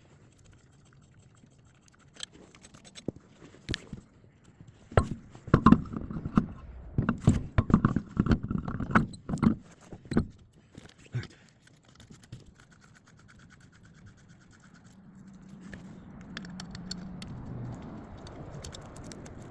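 Irregular metallic clanks, knocks and rattles for several seconds. Then, from about three-quarters of the way through, a low steady hum builds as the Nissan Sentra gets under way.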